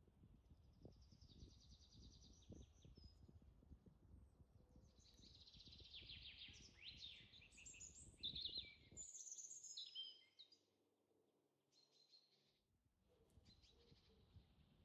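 Faint bird calls and chirps, several in a row, busiest about halfway through, over a low rumble that drops out for a few seconds in the middle.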